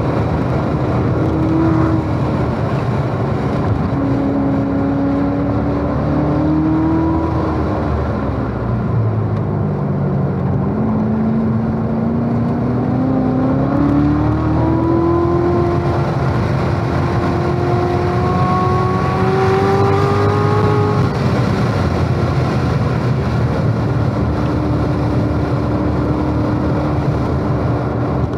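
A car's engine, heard from inside the cabin, pulling hard in third gear around a race track. Its pitch sags for a couple of seconds about eight seconds in, then climbs steadily for about ten seconds as the car accelerates, drops off, and runs steady near the end.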